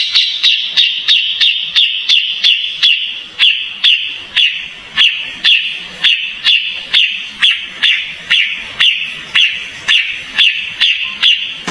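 Kapas tembak (olive-winged bulbul) calling in a fast, even series of sharp notes, about two to three a second, each a short high note that drops slightly in pitch.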